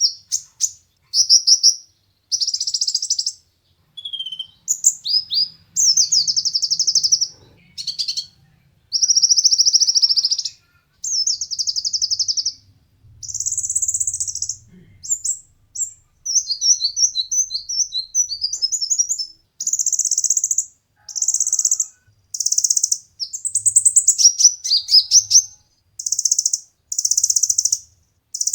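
Kolibri ninja sunbird singing: a string of high, rapid trilled phrases, each under about a second and a half, separated by short pauses, with a few quick chattering notes in the middle.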